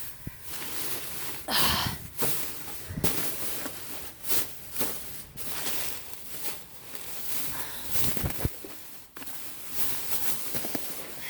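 Irregular rustling, crinkling and scattered knocks of trash and boxes being rummaged through by hand in a dumpster.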